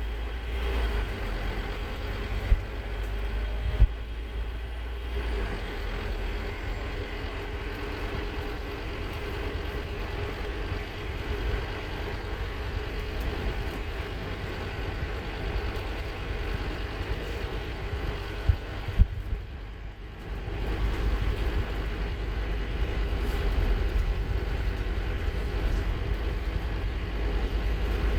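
Scania K230UB Omnilink bus engine running as the bus drives, heard on board, with a few sharp knocks and rattles. About 19 seconds in it drops away briefly, then comes back louder.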